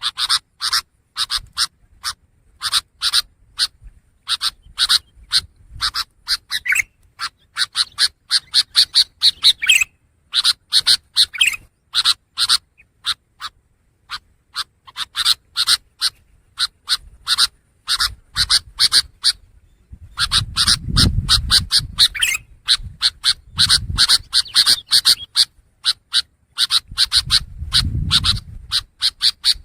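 Long-tailed shrike (pentet) singing: quick runs of short, sharp chattering notes, several a second, broken by brief pauses. Two low rumbles sound in the second half.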